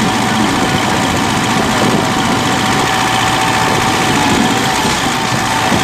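Diesel tractor engines running steadily and loudly, with a thin steady whine over the engine noise.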